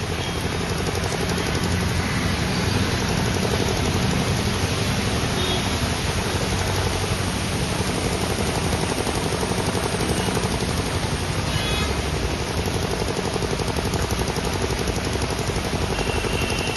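Steady road traffic noise: a constant low rumble with a hiss over it.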